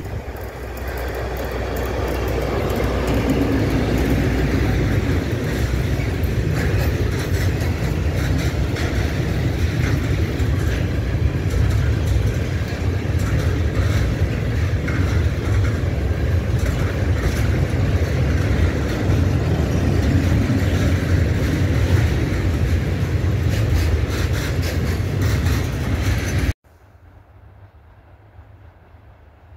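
Freight train of tank wagons passing close by: a steady low rumble and clatter of wheels on the rails that builds over the first few seconds as the locomotive arrives. About 26 seconds in it cuts off abruptly to a faint, steady background hum.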